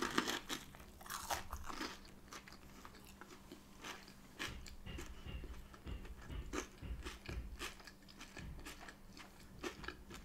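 A person biting into and chewing a mouthful of breaded plant-based no-chicken burger in a bun with lettuce, close to the microphone: crunching at the bite, then steady chewing at about two chews a second.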